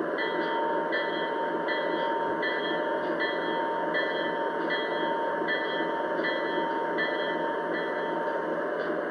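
Lionel Legacy ES4400AC O scale model locomotive's RailSounds 5 speaker playing a recorded diesel locomotive engine running steadily. Over it a ringing tone repeats about once every 0.7 s.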